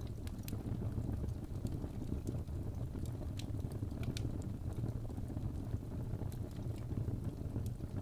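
Fireplace fire burning: a steady low rumble of flames with scattered sharp crackles and pops from the burning wood.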